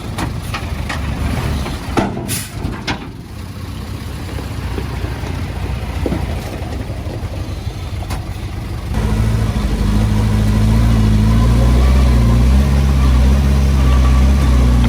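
Diesel engine of heavy earthmoving machinery running, with scattered sharp knocks in the first part. About nine seconds in, the sound steps up suddenly to a louder, steady low engine drone.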